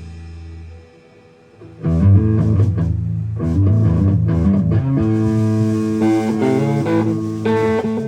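Amplified guitars jamming a riff: a low note rings out and dies away, a short pause follows about a second in, then the playing starts again and carries on.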